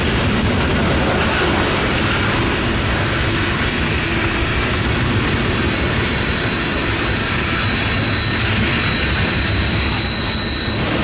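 A train rolling past with a steady, noisy rumble. A thin, high wheel squeal creeps in from about seven seconds in.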